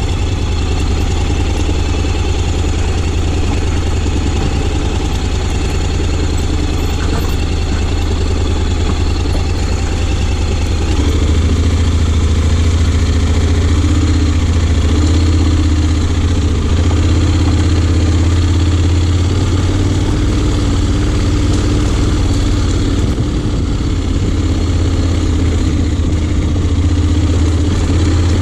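Honda X-ADV 750's parallel-twin engine running steadily, growing a little louder about eleven seconds in.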